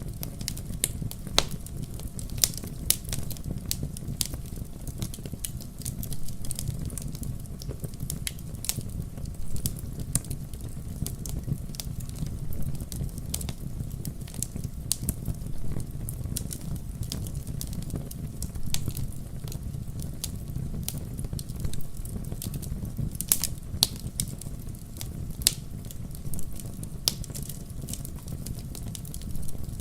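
Fire in a fireplace crackling: irregular sharp pops and snaps, a few louder ones, over a steady low rumble of the flames.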